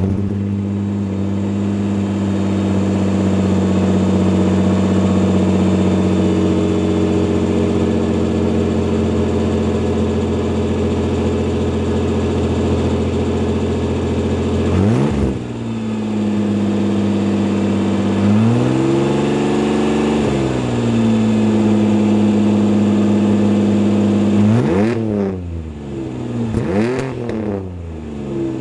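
1994 Ford Ranger's 4.0L OHV V6 idling just after a cold start, its exhaust running through the catalytic converters into straight 2.5 inch pipe with no muffler. About halfway it is given one quick rev, a few seconds later it is held up at higher revs for about two seconds and drops back to idle, and near the end it is blipped several times in quick succession.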